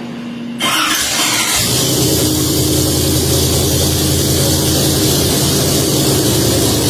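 Ford Coyote Aluminator 5.2XS V8 on an engine dyno, breathing through a Borla eight-stack injection, being started: it cranks about half a second in, catches about a second later and settles into a steady idle. It runs on custom camshafts with the variable valve timing deleted, set up for a muscle-car idle tone.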